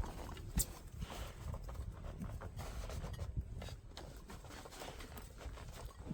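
A hiker's footsteps going downhill on a slippery mountain trail, irregular steps and scuffs, with a low rumble of wind on the microphone.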